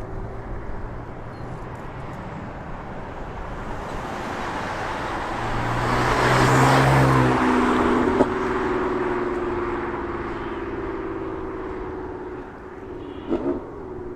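BMW M4 with catless downpipes and an FI exhaust driving past: the engine and exhaust swell as the car approaches, are loudest about six to seven seconds in, and fade as it goes away. A sharp crack comes about eight seconds in, after which a steady exhaust tone trails off.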